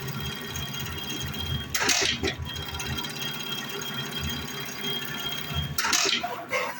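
Steady hum of an industrial pattern sewing machine, with two short hissing bursts, one about two seconds in and one near the end.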